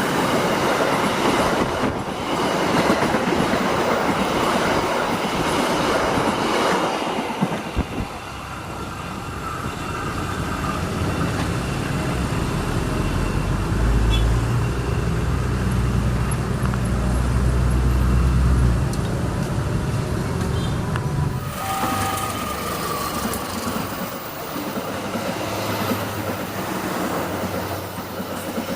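A train running past on the rails, its wheels sounding over the track, with a heavy low rumble through the middle of the passage.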